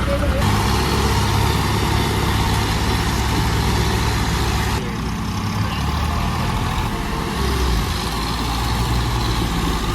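Tractor engines running steadily. The engine sound changes abruptly about half a second in and again about five seconds in.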